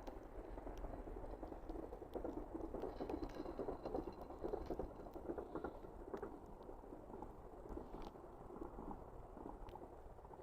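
Wood campfire burning: a steady rush of flame with scattered small crackles and pops, a little louder between about two and six seconds in.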